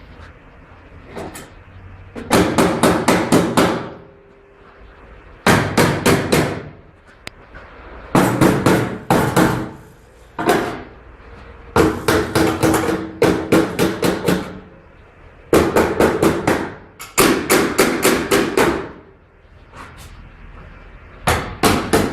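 Hammer blows on metal, coming in quick runs of about five to eight strikes with short pauses between them, the metal ringing faintly under the blows.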